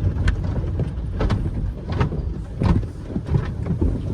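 Automatic tunnel car wash equipment heard from inside the car: a steady low rumble with several short knocks.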